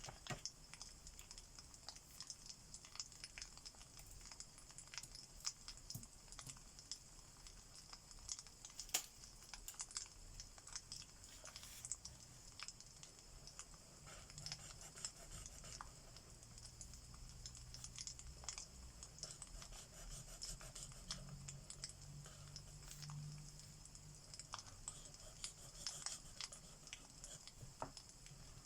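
Faint fireplace crackling: irregular small pops and snaps over a steady soft hiss.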